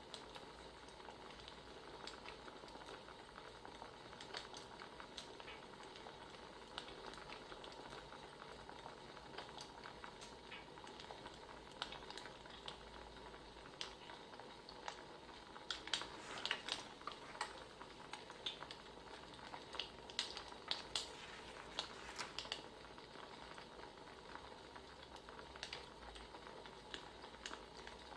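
Wood fire crackling: a steady soft hiss with scattered sharp pops, with a run of louder pops a little past the middle.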